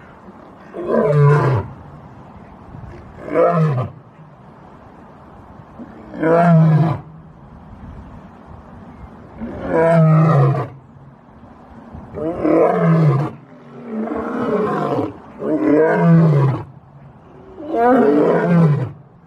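Asiatic lion roaring: a series of about eight deep calls, each about a second long and falling in pitch, coming closer together toward the end.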